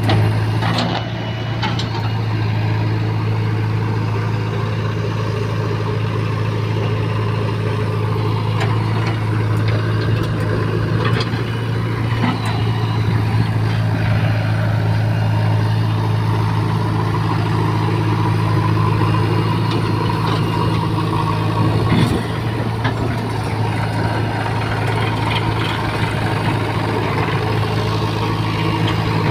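Heavy diesel engine of earth-moving machinery running steadily at a constant low hum, with a few sharp knocks now and then.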